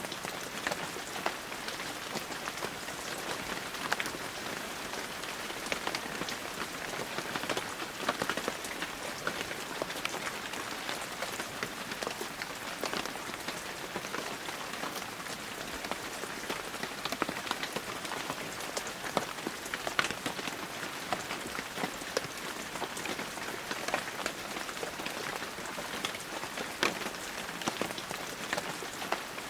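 Steady heavy rain falling, a dense even hiss with many sharp individual drops pattering on surfaces throughout.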